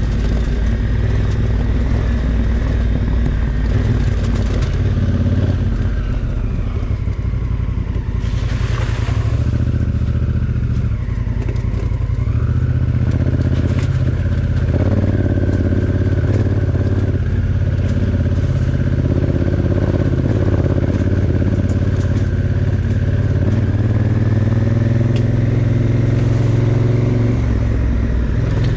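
Honda Africa Twin Adventure Sports' parallel-twin engine running under way. Its note dips and then rises again between about six and twelve seconds in, with a brief rush of noise about eight seconds in.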